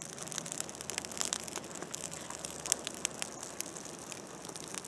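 Fire crackling and hissing, with frequent sharp pops scattered through it.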